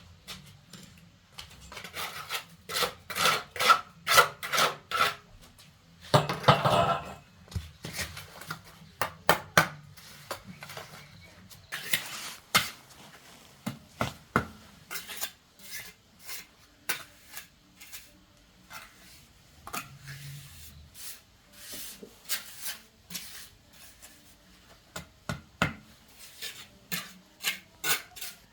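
Hand construction work: a run of sharp taps and knocks with scraping, including a quick series of strikes and one longer scrape.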